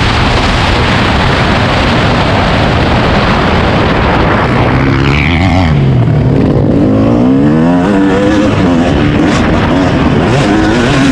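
Dirt bike engine revving, its pitch rising and falling repeatedly over a few seconds in the middle, under heavy wind noise.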